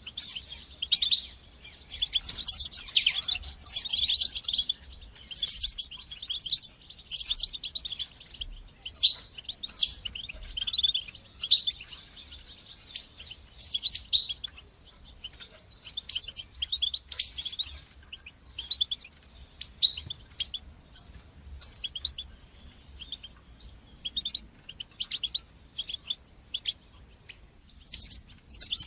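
European goldfinch twittering song: quick runs of short, high, sharp chirps, densest in the first five seconds, then coming in scattered phrases.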